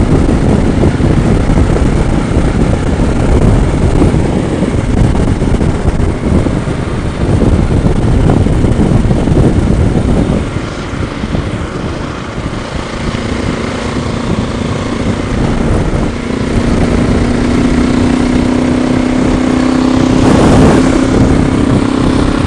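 Motorcycle under way at road speed, heard from the rider's helmet: wind buffeting on the microphone over the engine's hum, which settles into a steady tone about halfway through. A brief louder rush comes near the end.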